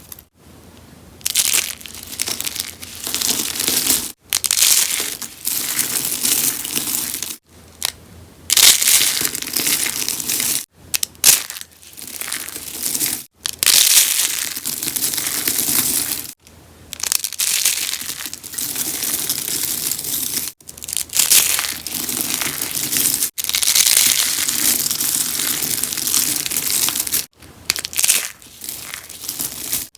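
Rose soaps being crushed, a dense crackling crunch. It comes in stretches of a few seconds, each broken off sharply by a brief gap.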